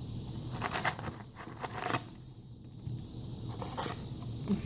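Short bursts of rustling and crinkling from trading-card box packaging being handled and opened, with a few light scrapes.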